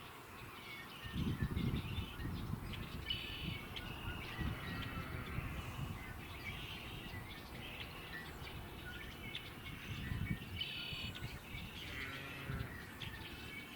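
Small birds chirping and calling over and over, short high chirps throughout, over a low rumble.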